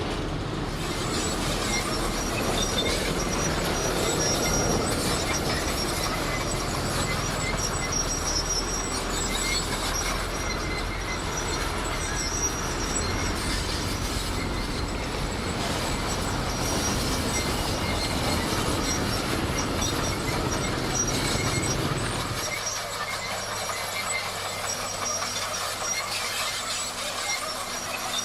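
Komatsu D58 crawler bulldozer working, its engine running under the squeal and clatter of its steel tracks, with thin high squealing tones. The low engine rumble drops away sharply about 22 seconds in.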